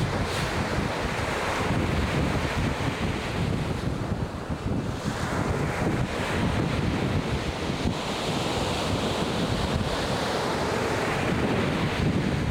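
Ocean surf breaking and washing up the beach in repeated swells, with wind rumbling on the microphone.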